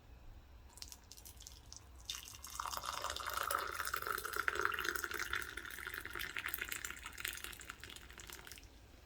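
Water running into a container, starting about two seconds in and stopping near the end, its pitch creeping slowly upward as the container fills.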